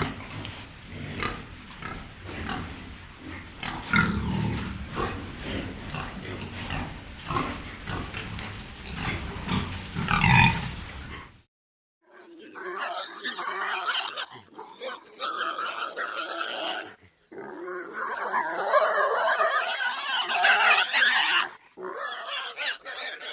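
Pigs grunting in a quick run of short, low grunts. About halfway through the sound cuts out briefly, and a different recording of higher-pitched pig squeals takes over, busy and shrill.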